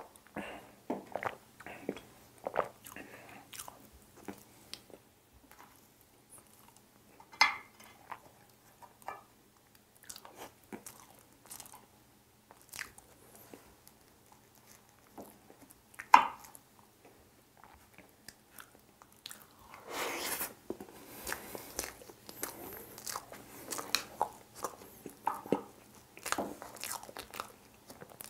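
Close-up eating sounds of a person chewing Oreo ice box cake: many short, scattered mouth clicks and chewing sounds, with two louder sharp clicks about 7 and 16 seconds in and denser chewing from about 20 seconds on.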